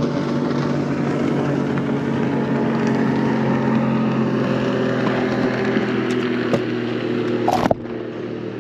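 Boat motor running steadily. A sharp knock comes near the end, and the motor drops a little in level after it.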